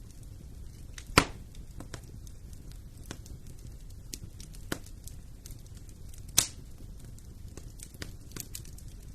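Wood fire burning in a fireplace: a low steady rumble with scattered crackles, and two loud pops about a second in and again after about six seconds.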